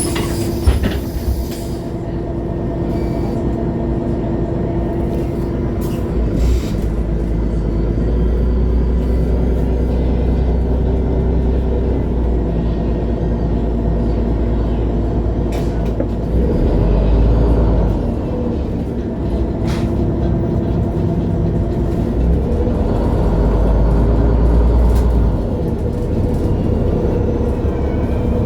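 Interior sound of a MAN Lion's City G articulated bus under way: its six-cylinder diesel engine and drivetrain run with a steady low rumble and a faint steady whine. The low drone swells and eases several times as the bus pulls and lets off, with a sharp knock about a second in.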